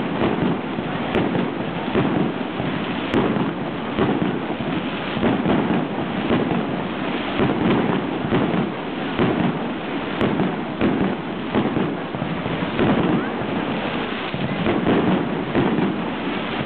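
Aerial fireworks bursting in quick succession: a dense, unbroken string of bangs and pops with no pause between them.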